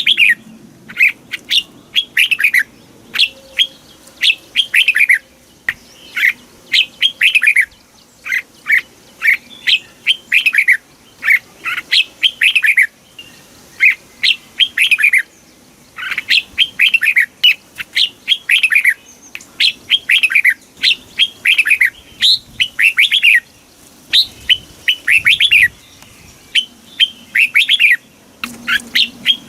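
Red-whiskered bulbul singing: quick phrases of short, clear, falling whistled notes, repeated over and over with brief pauses between phrases.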